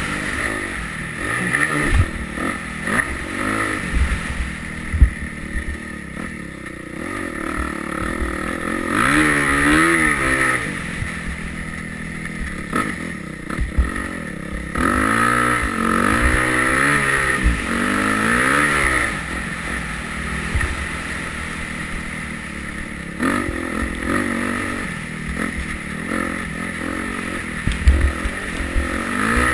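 Yamaha YZ250F four-stroke single-cylinder motocross bike being ridden, its engine revving up and falling back over and over through the gears. A sharp knock about five seconds in and another near the end.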